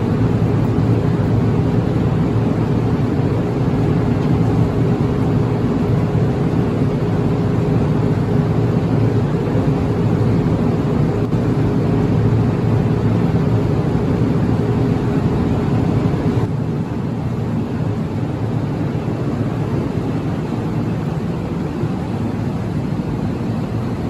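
Steady rumble of an electric commuter train at the station, with a steady hum over it; the hum fades and the sound eases slightly about sixteen seconds in.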